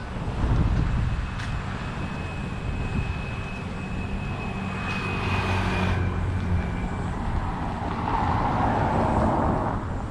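Road traffic: motor vehicles passing, their engines running with a low hum, and a thin high whine that lasts a few seconds in the middle.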